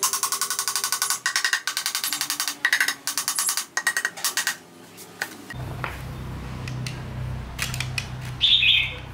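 Rapid back-and-forth scraping strokes of a hand tool on metal engine parts, about five strokes a second, stopping after about four and a half seconds. A low steady motor hum then starts, and a short bird chirp comes near the end.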